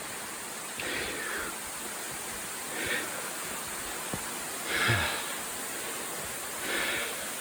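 Steady rushing of a waterfall, with a person's breaths coming through about every two seconds.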